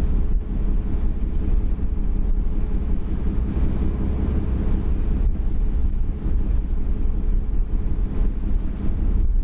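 Ferry engine running steadily, a low hum, with wind noise on the microphone.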